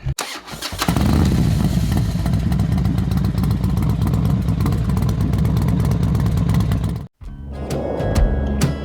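Harley-Davidson Road King Special's V-twin engine running with a steady low rumble, which cuts off abruptly about seven seconds in and gives way to a quieter, different sound.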